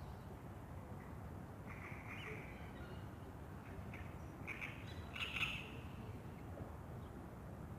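Wild birds calling: a handful of short calls between about two and five and a half seconds in, the loudest near the middle of that stretch, over a steady low background rumble.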